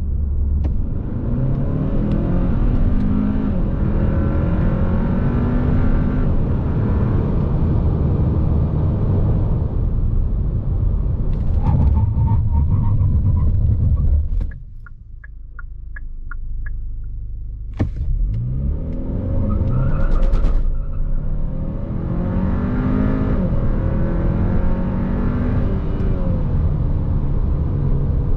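Hyundai Sonata N Line's 2.5-litre turbocharged four-cylinder pulling hard under full throttle, its pitch rising and dropping back at each upshift of the eight-speed dual-clutch gearbox. About halfway through it falls quiet for a few seconds, with a short run of evenly spaced clicks. Then a second hard acceleration follows, with the same rising pulls and drops at the shifts.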